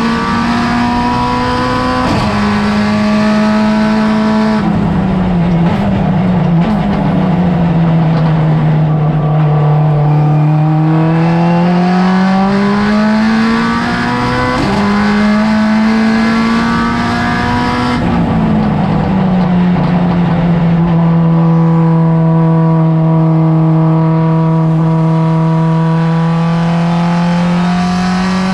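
A car's engine being driven hard on a race track. Its pitch climbs slowly and steadily for several seconds at a time, then drops sharply a few times where it shifts gear or comes off the throttle, with road and tyre noise underneath.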